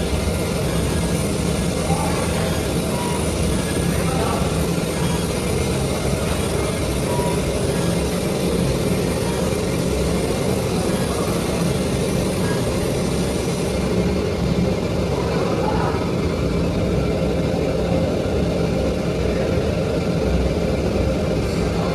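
IECHO BK4 single-ply fabric cutting machine running, a steady mechanical drone with a low hum; its high hiss drops away about two-thirds of the way through.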